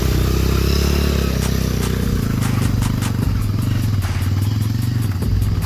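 Motorcycle engine running under load as the bike is ridden over a rough off-road stretch, its note dropping about a second in, with a run of clattering knocks through the second half.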